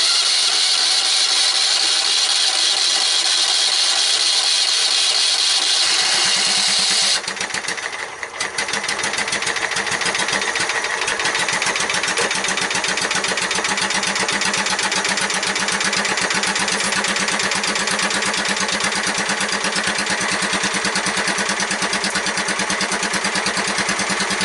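Small dragster's engine started cold without choke: about seven seconds of a loud, steady, high-pitched run, then the sound drops off briefly and the engine settles into a steady, rhythmic, pulsing run.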